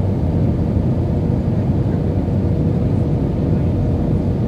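Steady cabin noise inside an Airbus A320 with IAE V2500 engines: an even low rumble with a faint constant hum and no change in pitch.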